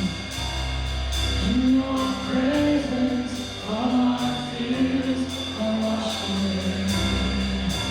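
Worship band playing with singing: long held sung notes over steady bass and a regular beat.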